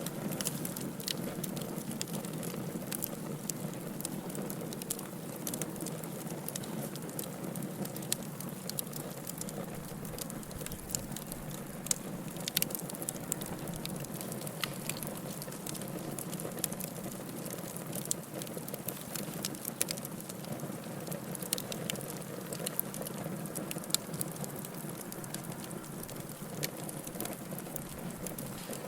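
Wood fire burning in a fireplace: a steady low rush of flames with frequent, irregular sharp crackles and pops, a few of them louder.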